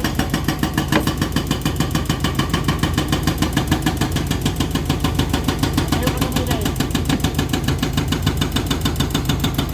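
Cat 320D2 excavator's diesel engine running steadily, with an even, rapid pulsing of about five to six beats a second.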